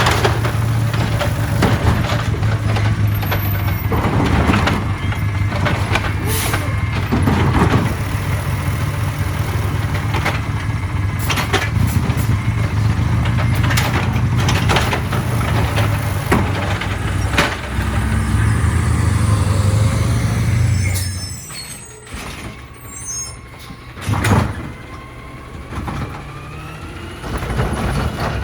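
Side-loader garbage truck's diesel engine running steadily, with repeated sharp knocks and air hisses from the truck and its lifting arm. About three-quarters of the way through, the engine note drops away, then comes one loud bang.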